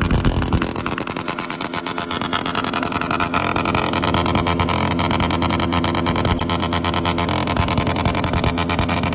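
Car engine revving hard and held at high revs, loud, starting abruptly.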